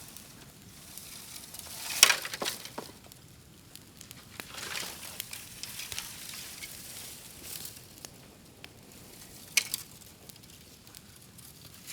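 Bamboo burning on an open bonfire: steady crackling and hissing, broken by sharp pops, the loudest about two seconds in and a quick pair near the end.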